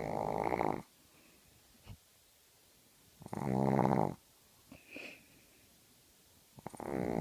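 Sleeping pug snoring: three loud snores about three seconds apart, with a faint short whistle between the second and third.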